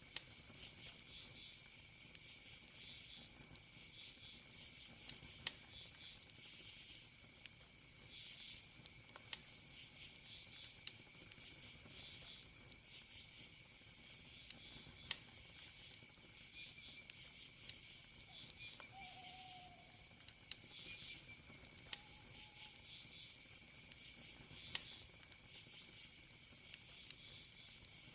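Campfire crackling with sharp wood pops now and then, the loudest about fifteen and twenty-five seconds in, over night insects: a steady high cricket drone and rhythmic pulsing chirps. A few short faint calls come in during the second half.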